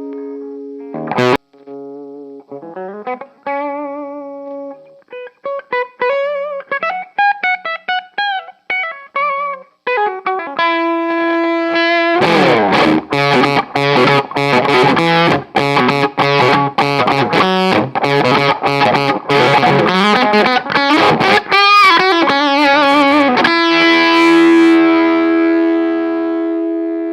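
Electric guitar played through the M'Amps 60 W pocket power amp, which has a 6J1 (EF95) mini-pentode valve stage ahead of a Class D output. It opens with held single notes and bent lines with vibrato. About halfway in it breaks into a fast, stop-start distorted chord rhythm, and it ends on a held chord ringing out.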